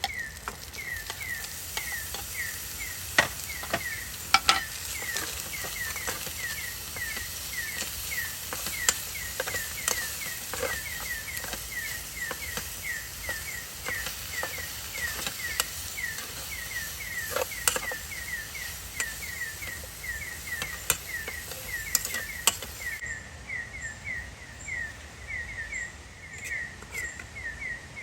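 Campfire crackling, with irregular sharp pops over a soft hiss. Behind it, a high chirping call repeats steadily and evenly.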